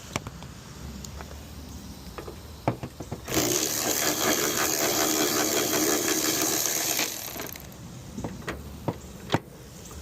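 Hand tools clinking and knocking, with a loud, steady rasping noise in the middle that lasts about four seconds before cutting off.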